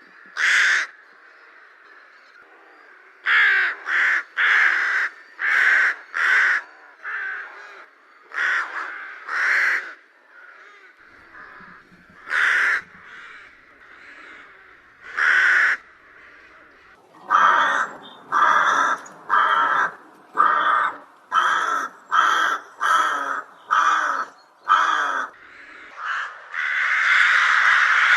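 Rook calling: a series of harsh, rasping caws, spaced out at first and then coming about two a second, before running together into a continuous harsh din near the end.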